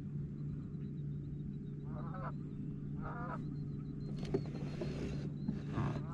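Three short, wavering bird calls, like waterfowl, over the steady low drone of a boat motor. Bursts of hiss come in the last couple of seconds.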